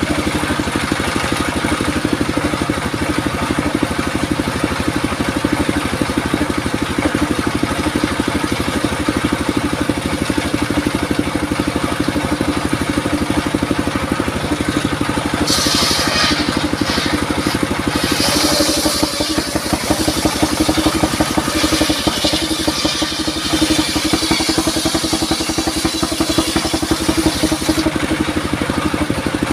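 Engine-driven circular saw running steadily, with a higher hiss from the blade cutting through durian wood for stretches in the second half.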